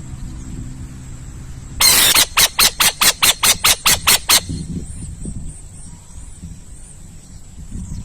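An owl's harsh screeching call: one longer screech about two seconds in, then a rapid run of about ten short harsh pulses, some five a second, stopping a little past four seconds.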